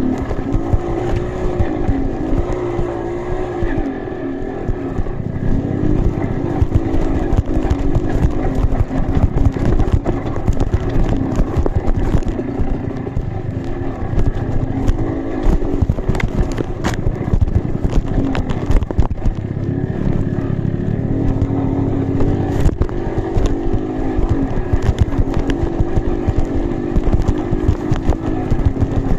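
Trail motorcycle engine running and revving unevenly, its pitch rising and falling, with frequent clicks and knocks over the top.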